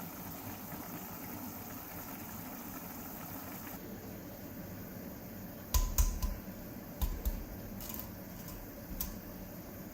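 A steady hiss, with a few knocks and clatters of objects being handled: a cluster about six seconds in, another about seven seconds in, and lighter ones near eight and nine seconds, one with a brief ringing clink.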